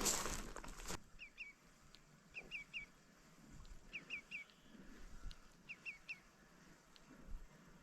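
A small bird calling in four short phrases of two or three quick high notes, about one phrase every second and a half, against faint outdoor quiet. A rustle of footsteps stops abruptly about a second in.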